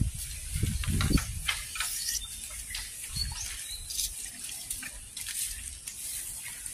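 Light rustling and scattered small clicks of dry coconut-leaf midribs being handled and tied into bundles, with a couple of low thumps about a second in.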